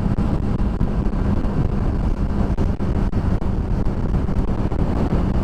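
Wind rushing over the microphone of a motorcycle riding at speed, with the 2007 Honda CBR600RR's inline-four engine holding a steady cruising note beneath it.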